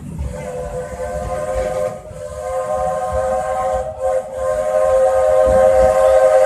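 Steam locomotive's chime whistle blowing three long blasts, a chord of several steady tones with an airy hiss, the last blast the longest and loudest.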